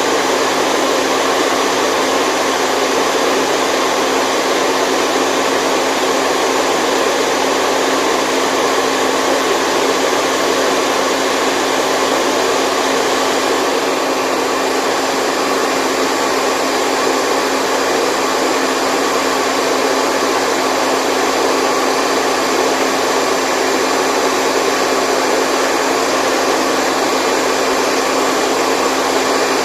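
Steady, unchanging white noise: an even rushing hiss with faint steady tones in it and little deep bass, used as a sleep sound for a baby.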